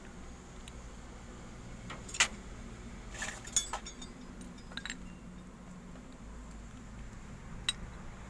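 A few sharp clinks and clicks of small hard parts knocking together, about five in all: new variator rollers being set into the greased variator plate of a scooter's CVT clutch.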